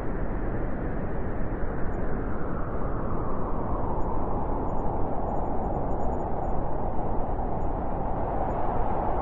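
Blizzard wind blowing as a steady rushing noise, with a howl that strengthens a few seconds in.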